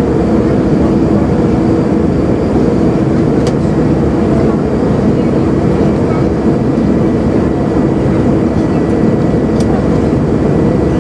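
Steady cabin noise inside an Airbus A320 with its engines running: an even rush with a low hum and a faint high whine. Two faint ticks come through, about three and a half seconds in and near the end.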